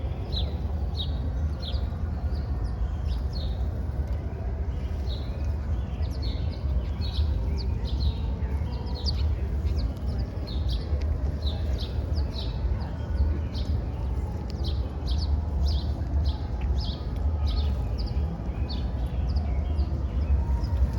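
Small birds chirping over and over, several short sharp chirps a second, over a steady low rumble.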